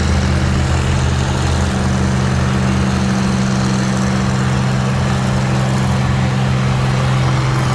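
An engine idling at a steady, unchanging speed.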